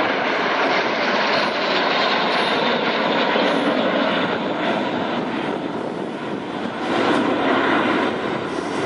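Formation of L-39C Albatros jet trainers passing by, a loud, steady rush of turbofan engine noise that eases a little and swells again about seven seconds in.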